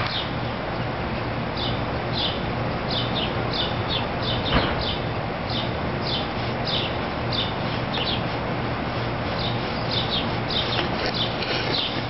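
A bird chirping over and over, short high falling chirps about one or two a second, over a steady low hum. One sharp knock about four and a half seconds in.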